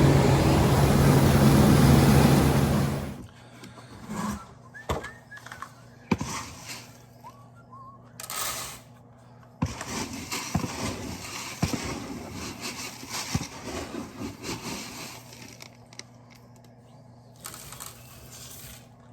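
Case IH 1680 combine running steadily for about three seconds, then cut off abruptly. After that come faint scattered scrapes, knocks and clunks.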